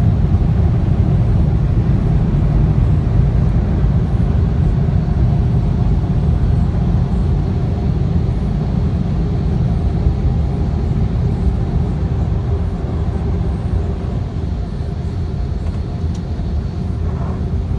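Steady low rumble of a car heard from inside the cabin, engine and road noise as it drives.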